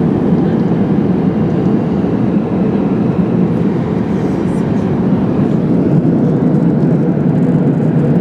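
Steady loud rumble of an Airbus A380's engines and airflow heard inside the lower-deck economy cabin.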